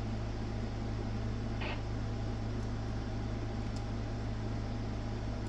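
Steady low electrical hum with an even hiss from running bench equipment, with a brief soft rustle about one and a half seconds in.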